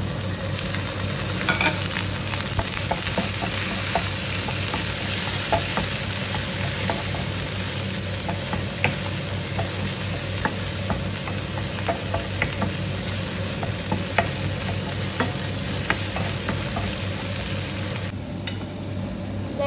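Sliced shallots, green chilli, curry leaves and tomato sizzling in ghee in a non-stick frying pan, stirred with a wooden spatula that clicks and scrapes against the pan now and then. The sizzle drops away a couple of seconds before the end.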